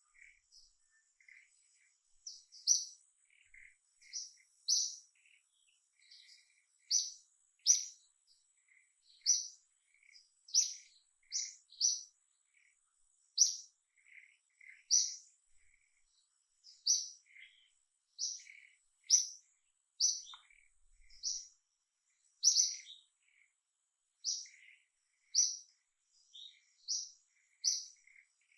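Small bird chirping: short, high chirps repeated about once a second, with fainter lower chirps in between.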